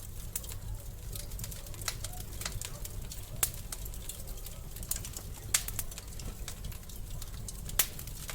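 Wood fire crackling in a fireplace: irregular sharp pops and snaps over a steady low rumble of the flames, with three louder snaps, about a third of the way in, past the middle and near the end.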